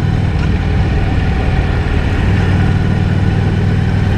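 Honda Shadow 750's liquid-cooled V-twin engine running steadily while riding, heard from the rider's helmet microphone with wind noise.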